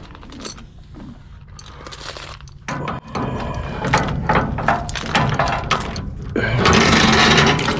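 Irregular mechanical clicking and ratcheting, a quick run of sharp metallic knocks, then about a second of dense steady noise near the end.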